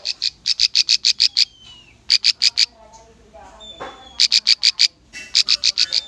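Bar-winged prinia (ciblek) song from a lure recording. Four phrases of rapid, sharp repeated notes, about eight a second, are separated by short pauses, with an occasional brief falling whistle between phrases.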